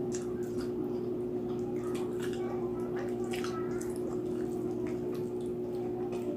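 Wet chewing and mouth smacking close to the microphone, a string of short irregular clicks and squelches, over a steady low hum.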